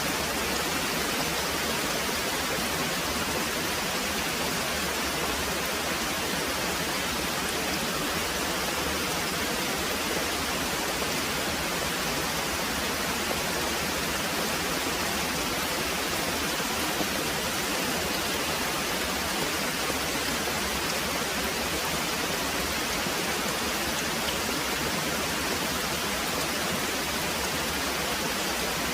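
Very heavy rain pouring steadily, an even hiss with no thunder or other events standing out.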